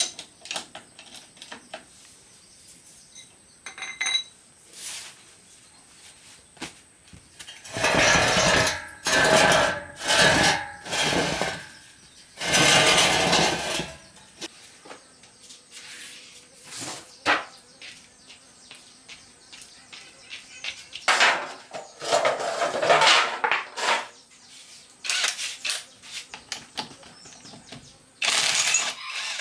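Metal clinks and knocks from hand tools and parts being handled, with several loud scraping or grinding stretches lasting a second or two each.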